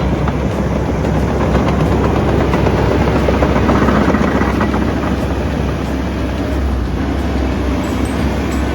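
Hydraulic excavator's diesel engine running steadily, swelling a little in the middle.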